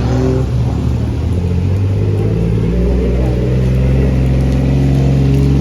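Car engine running while driving, its note shifting in the first second or so and then holding steady.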